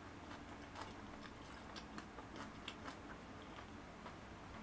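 Faint close-up chewing of a mouthful of shrimp-tempura kimbap dipped in tteokbokki sauce, with scattered small wet mouth clicks.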